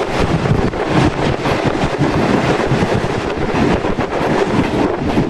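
Moving passenger train of the Karachi Express running along the track: a steady, loud rumble of wheels on rail with wind blowing across the microphone.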